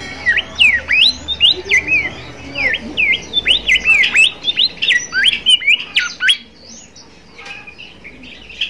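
Bimoli songbird singing in full voice: a rapid, dense run of sharp chirps that sweep quickly up and down, for about six seconds, then thinning to a few scattered quieter notes.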